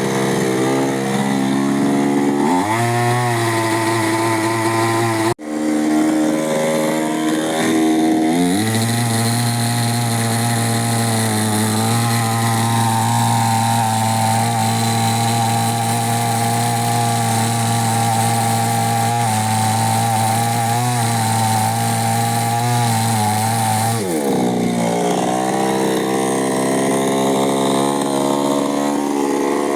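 Chainsaw engine revved up to full throttle and held there while cutting wood, with a sudden brief break about five seconds in; near the end it drops back to idle.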